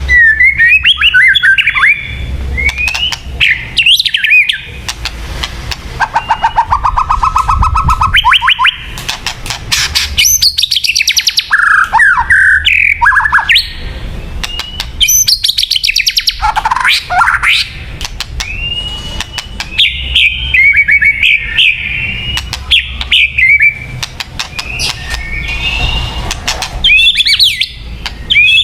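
White-rumped shama singing loudly and continuously: a string of varied whistled phrases that slide up and down, broken by fast rattling trills and sharp clicking notes, with brief pauses between phrases. A steady low hum runs underneath.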